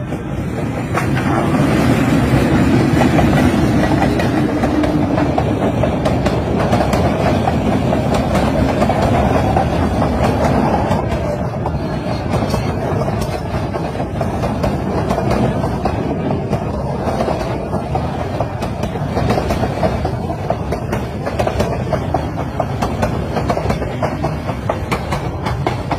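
A train passing at speed: a steady rumble with the wheels clicking over the rail joints, loudest a few seconds in.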